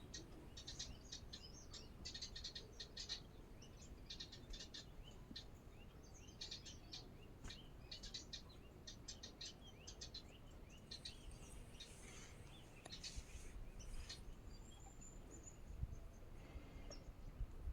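Small birds chirping and twittering faintly in quick, short, high notes, thinning out in the second half with a few thin whistles.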